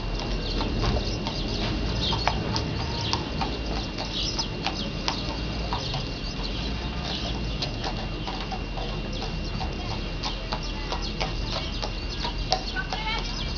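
Horse hooves clip-clopping on asphalt, a stream of irregular knocks, with birds chirping and a chicken clucking near the end.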